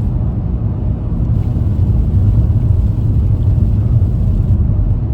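Steady low rumble of a front-wheel-drive car driving slowly on a snow-covered road, heard from inside the cabin: engine and tyre noise.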